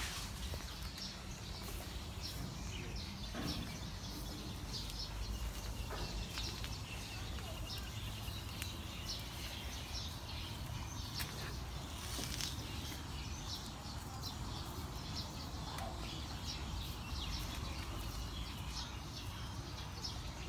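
Small birds chirping repeatedly in short, high calls over a steady low rumble of outdoor ambience.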